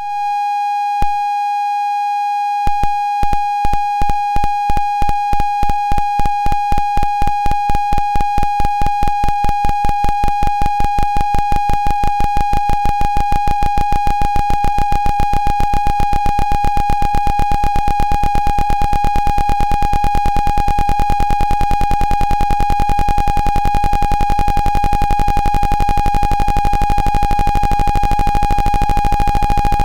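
Loud electronic tone from a function generator: a steady high-pitched beep with overtones, joined about a second in by a train of clicks that keeps speeding up until it becomes a rapid buzz.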